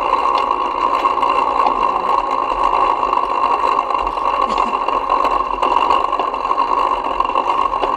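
Steady riding noise from a camera mounted on a moving bike: a continuous drone with rattle, without breaks.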